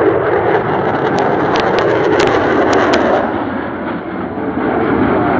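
Military jet fighter's engine noise, a loud steady rush that dips briefly about four seconds in, with a few sharp clicks between one and three seconds in.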